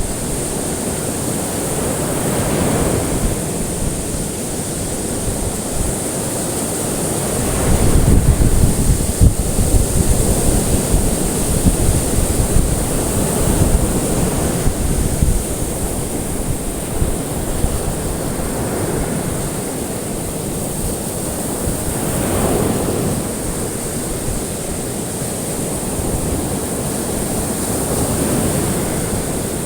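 Ocean waves breaking and washing ashore, swelling up every several seconds and easing back between, with a steady high hiss running underneath.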